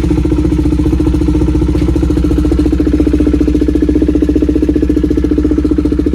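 KTM Duke 390 single-cylinder engine idling steadily just after a cold start, through a loud aftermarket exhaust, with a fast even exhaust beat.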